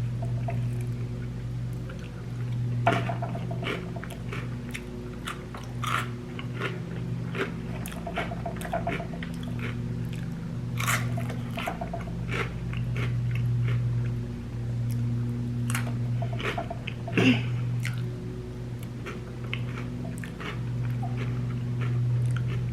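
Close-miked crunching and wet chewing of Flamin' Hot Cheetos coated in queso and sour cream, with repeated crisp bites scattered through. A steady low engine hum from lawn mowing runs behind it.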